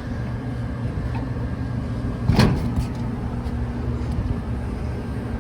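Trane rooftop package AC unit running with a steady low hum, its fan on and first cooling stage just started. A single loud knock about two and a half seconds in.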